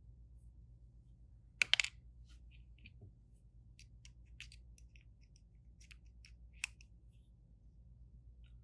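Small hard clicks and taps of tools and phone parts being handled during a phone repair: a quick cluster of sharp clicks about one and a half seconds in, scattered light ticks, and one more sharp click later on, over a low steady hum.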